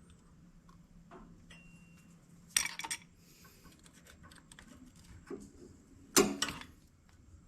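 Hand tools and metal parts clinking while the throttle linkage is being taken off: two short bursts of rapid metallic clicks, about two and a half seconds in and again about six seconds in, with lighter ticks between.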